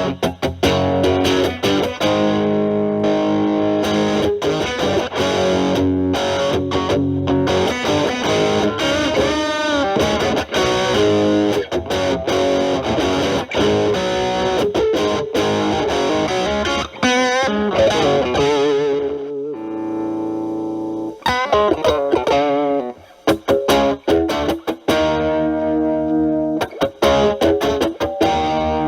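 Electric guitar, a Stratocaster with single-coil pickups, played through a Boss DS-1 distortion boosted by an Ibanez TS9 Tube Screamer into a Marshall Valvestate amp: driven lead licks with wavering bent notes. About twenty seconds in, the guitar's volume knob is rolled back and the distortion cleans up to a quieter, lighter crunch.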